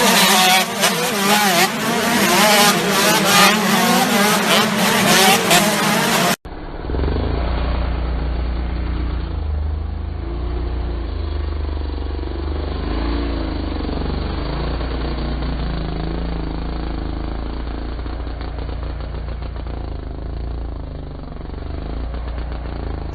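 Motocross motorcycle engines revving, their pitch rising and falling. About six seconds in the sound cuts abruptly to a duller, muffled recording dominated by a low rumble with faint engine drone.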